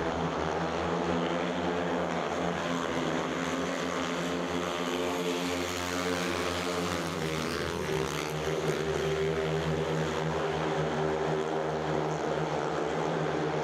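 Several speedway motorcycles with 500 cc single-cylinder methanol engines racing at high revs, a dense buzzing drone from the pack. The pitch dips and climbs again about halfway through.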